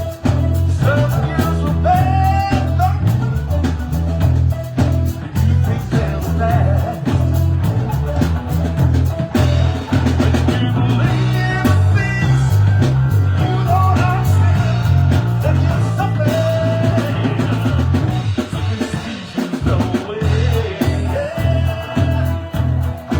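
Band music with drum kit, a steady bass line and singing over it: a sound-check run-through of a rock-style song.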